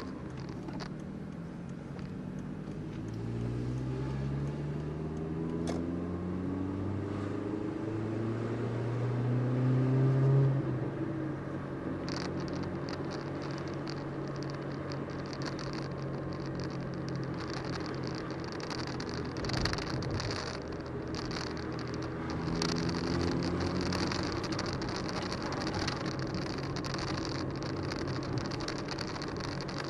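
Volkswagen Golf Mk4 engine and leaking exhaust while driving. The engine note rises as the car accelerates, loudest about ten seconds in, then settles to a steady drone with a smaller rise later on.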